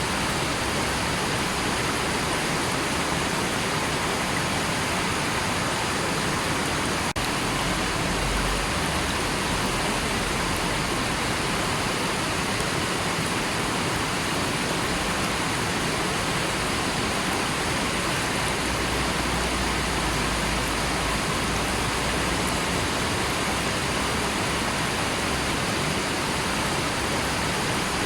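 River water flowing steadily: an even, unchanging rush of water.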